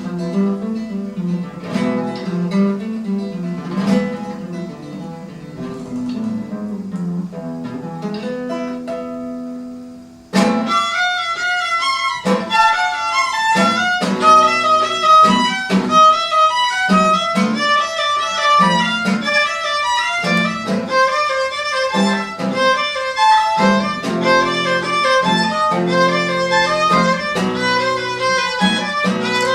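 Live instrumental music: an acoustic guitar plays an introduction alone, then about ten seconds in a violin comes in with the melody over the guitar accompaniment.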